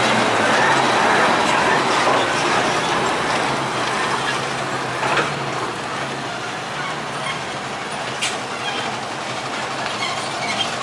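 A heavy vehicle passing: a steady rumble of engine and road noise with a low hum, loudest in the first few seconds and then easing off.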